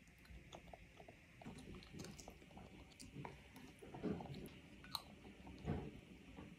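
Faint chewing and mouth sounds of a toddler eating soft salmon and zucchini, with a few light clicks of a metal spoon on a ceramic bowl.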